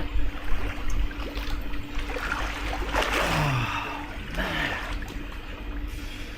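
Swimming-pool water splashing and lapping as someone swims, louder about three seconds in, over a steady low hum.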